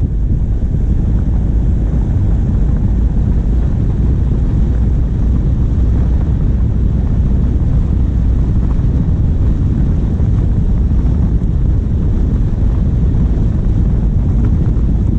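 Steady low rumble of wind buffeting a bonnet-mounted action camera's microphone as a diesel vehicle drives, with the engine running underneath.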